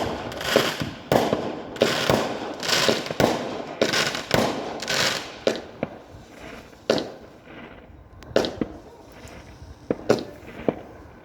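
Fireworks going off: a rapid run of sharp bangs with crackling hiss between them for roughly the first six seconds, then scattered single bangs.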